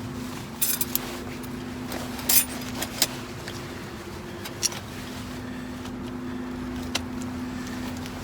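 Scattered short metallic clinks and rattles of camping gear being handled and packed away, about five in all, over a steady low hum.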